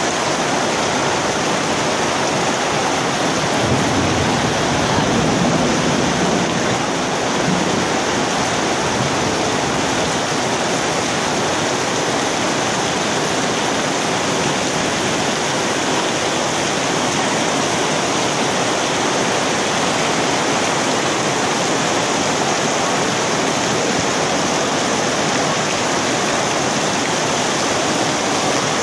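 Heavy rain shower pouring down steadily, heard from under a tent canopy: a dense, even hiss.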